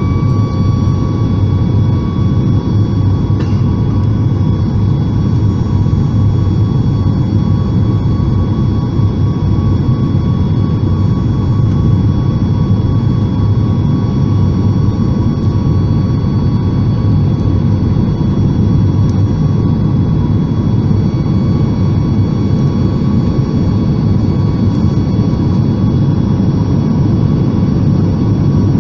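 Steady cabin noise inside a Boeing 737 MAX 8 from its CFM LEAP-1B turbofan engines and airflow: a loud, even low rumble with several faint steady whining tones above it.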